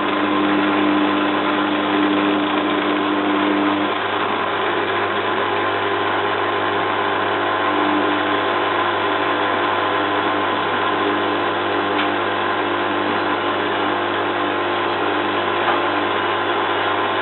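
Zanussi FLA1002W washing machine running with a steady mechanical hum, the drum turning a duvet load that is a bit unbalanced ahead of a spin. A pair of steady tones in the hum stops about four seconds in.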